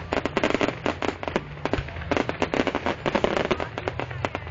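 Fireworks going off in a rapid, continuous crackle of many sharp bangs and pops close together.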